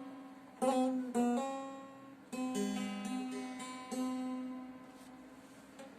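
Three-stringed Turkish folk lute played solo: a few strummed strokes with ringing notes, then the last chord rings out and fades away toward the end.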